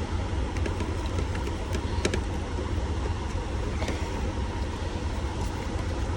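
Steady low vehicle rumble, with scattered light clicks and taps of hands working plastic clips and parts on a truck's steering column.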